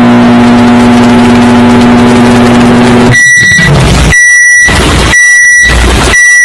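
Microwave oven running with a steady, very loud hum that stops about three seconds in, then beeping in long, high beeps about once a second to signal the end of the heating cycle.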